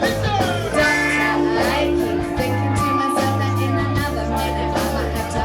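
Live rock band playing: drums striking regularly over a loud, heavy bass line, with sustained held notes above.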